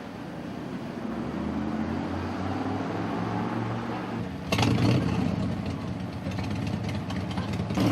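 A motor vehicle's engine running close by, slowly getting louder, with a sudden jump in loudness about four and a half seconds in.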